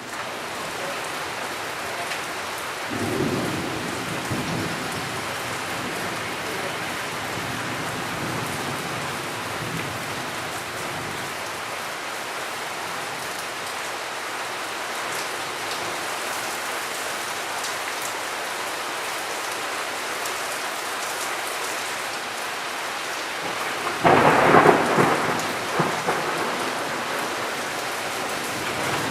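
Steady heavy rain during a thunderstorm, with a low roll of thunder about three seconds in and a loud, close thunderclap about twenty-four seconds in that rumbles away over a couple of seconds.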